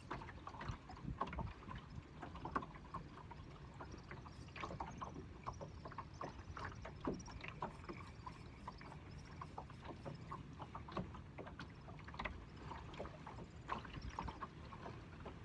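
Water lapping and splashing against the hull of a small boat, with scattered small knocks and drips. About eight seconds in there is a short run of quick, even, high ticks.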